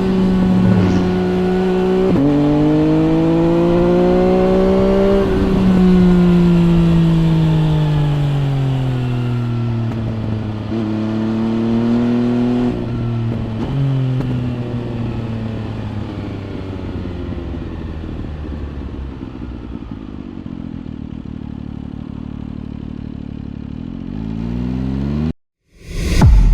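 MV Agusta Brutale 800 RR's three-cylinder engine through a loud aftermarket triple exhaust, pulling through the gears with the pitch rising and dropping at each shift. It then settles to lower revs and rolls off, with the pitch falling. Near the end there is a short rev, the sound cuts off suddenly, and a brief loud burst follows.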